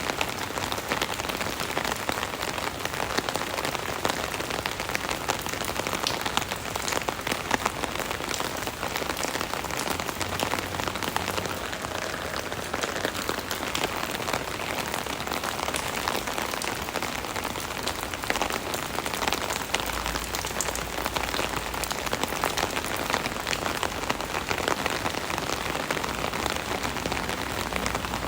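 Steady rain pattering on an umbrella canopy, a dense mass of close drop taps with no let-up.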